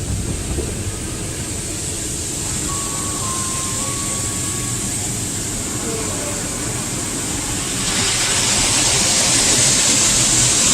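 Automatic drive-through car wash machinery heard from inside the car: a steady rushing hiss that grows louder and brighter about eight seconds in.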